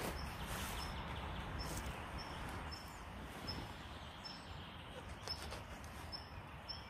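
A bird repeating a short, high chirp, every half-second to a second, over rustling and a low wind rumble.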